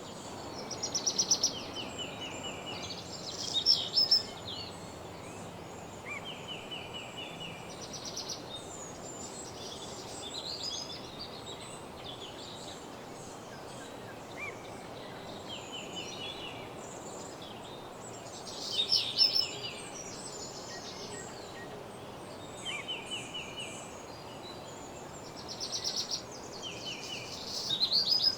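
Woodland songbirds singing a dawn chorus: short rapid trills and song phrases from several birds every few seconds, over a steady low background hiss.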